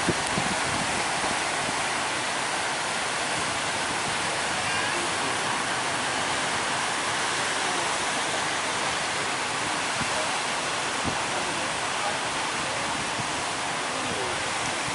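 Big ocean waves breaking in a steady rushing roar of surf.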